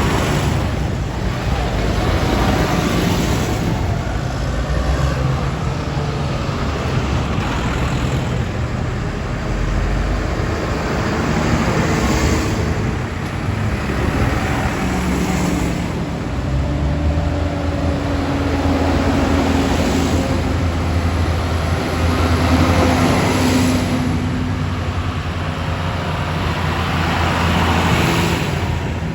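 Tractor engines running as a procession of road-run tractors and lorries drives past, one vehicle after another every few seconds.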